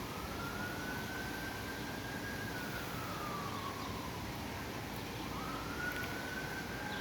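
A siren wailing: one tone slowly rising, holding, falling and rising again, about one and a half cycles, over a steady rushing background noise.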